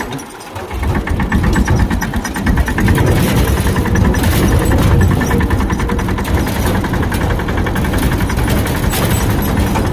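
Tractor engine running steadily, with a fast, even pulsing.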